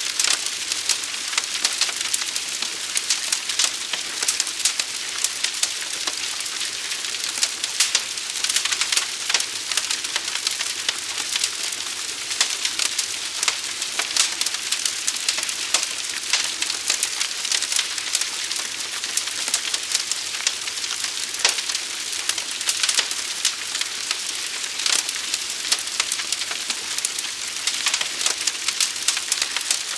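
Burning wood fire crackling: dense, irregular pops and snaps over a steady hiss.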